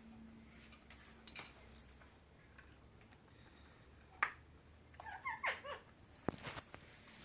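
Parakeet giving a short sharp call, then a quick run of short chirping notes about a second later, with a sharp click near the end.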